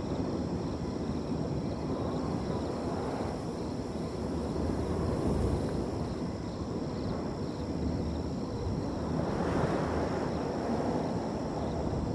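Wind blowing and gusting through a field, swelling about halfway through and again near the end, over a steady high trilling of crickets.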